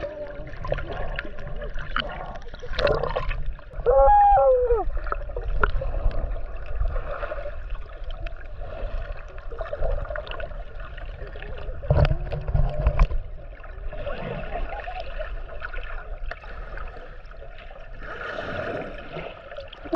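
Water sloshing and gurgling around the microphone, with a brief voice-like call about four seconds in.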